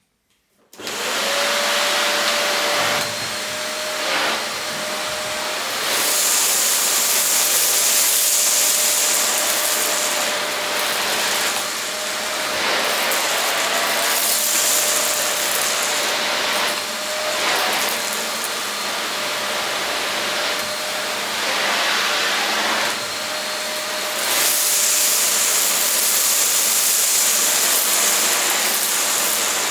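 Silvercrest SBBK 700 B2 700-watt canister vacuum cleaner switched on just under a second in and running, a steady motor whine over rushing air. The rush of air swells and fades every few seconds.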